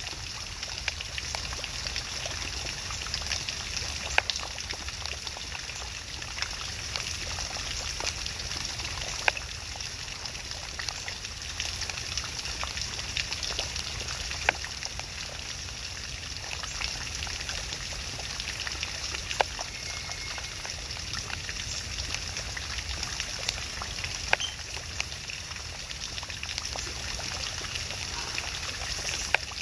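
Steady trickling, running water, with a sharp click about every five seconds.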